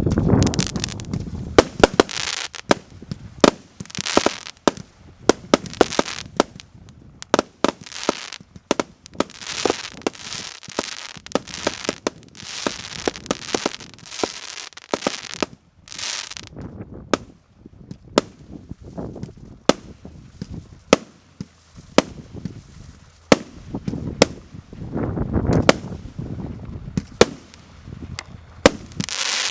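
Multi-shot firework cake (the Goblin JFC2 battery) firing: a long, irregular run of sharp bangs, with hissing and crackling between them. There are brief lulls about a third and halfway through.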